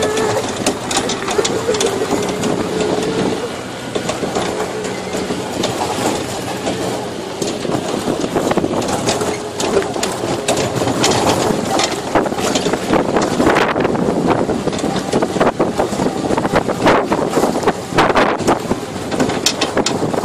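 Tractor engine running as it tows a train of barrel cars, with the cars rattling and knocking throughout.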